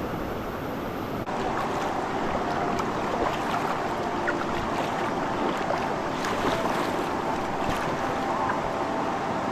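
River water rushing and splashing around a raft, a steady noise that shifts abruptly just over a second in.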